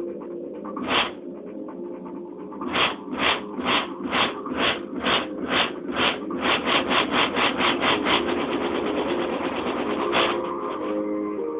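Music played loud on a stereo with the bass turned up, picked up by a phone's microphone: held synth chords under a drum roll that starts at about two hits a second, speeds up until it runs into one continuous roll, and breaks off near the end, the build-up of a dance track.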